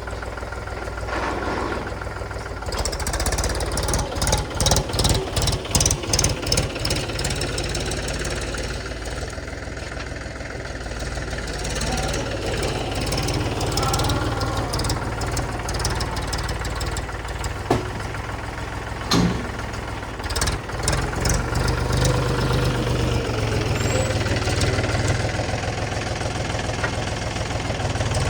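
Heavy diesel engine of sand-loading machinery running steadily, throbbing in quick pulses for a few seconds early in the stretch, with two sharp knocks a little past the middle.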